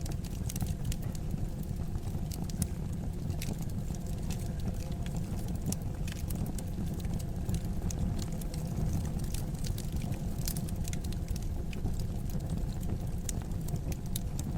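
Fire crackling in a fireplace: scattered sharp pops and snaps over a steady low rumble.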